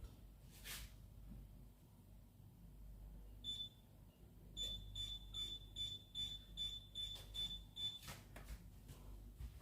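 Electronic beeper of a kitchen appliance: one short high beep, then about a second later a quick run of about nine high beeps, a little over two a second.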